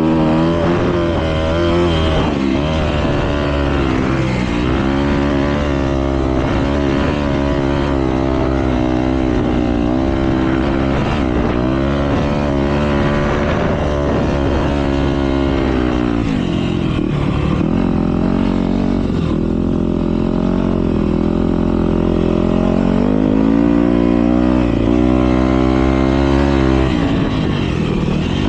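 Motocross bikes racing: several engines revving up and down in pitch through gear changes and throttle blips, with a lull about two-thirds of the way through before they climb again.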